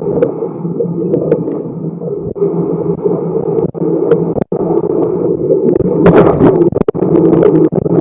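Hurricane-force wind buffeting an outdoor camera microphone: a loud, continuous moaning rush with scattered crackles and a few brief dropouts.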